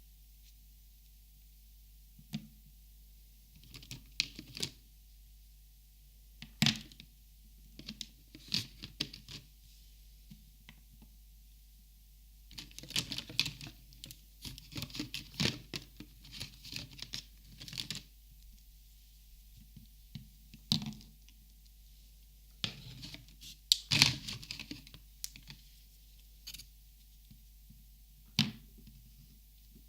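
Plastic Copic markers handled and sorted: scattered sharp clicks and taps, with a busy stretch of rapid clicking in the middle and another cluster near the end.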